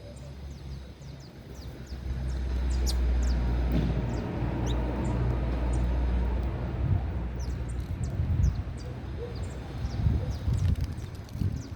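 Canaries giving many short, high chirps while feeding, over a loud low rumble that swells about two seconds in and breaks into irregular low thumps in the second half.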